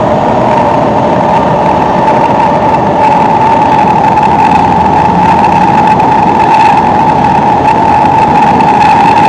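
Singapore MRT train running at steady speed, heard inside the carriage: a loud, even rumble of wheels on rail with a constant high-pitched whine over it.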